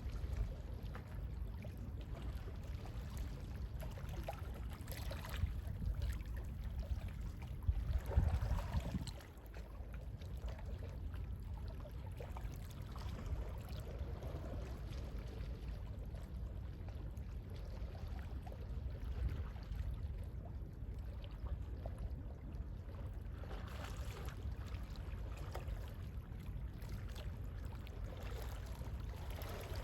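Gentle sea waves washing in and drawing back in soft, irregular swells over a steady low rumble, with a louder wash about eight seconds in.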